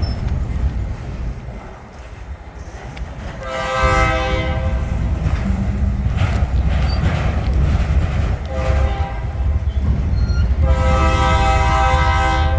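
Diesel locomotive's multi-chime air horn blowing three times, a long blast, a short one, then another long one, over the steady low rumble of the train running.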